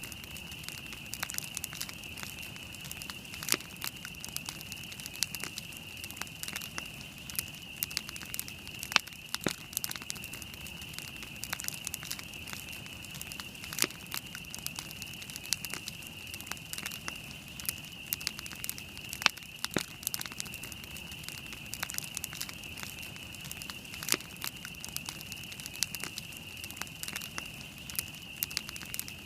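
Wood campfire burning, crackling with frequent sharp pops at irregular intervals, over a steady high hiss.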